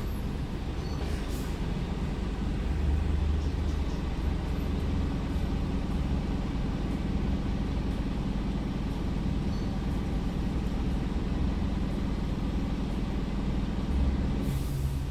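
Scania R410 truck's 13-litre six-cylinder diesel running steadily under way with a low drone. Near the end there is a short hiss and the engine note changes.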